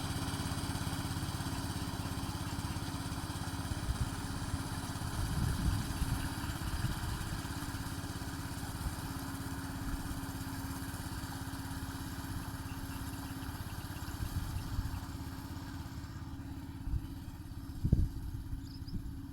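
The boat's 6.5-horsepower engine runs steadily, driving a 3-inch water pump. Low rumble sits under it. The engine sound grows fainter about three-quarters of the way through, and a single thump comes near the end.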